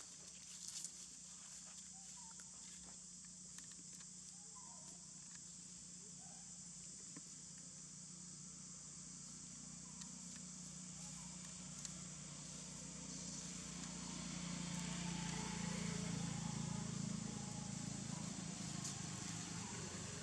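Faint outdoor ambience: a steady high-pitched insect drone throughout, with a few short faint chirps near the start and a low hum that swells in the second half.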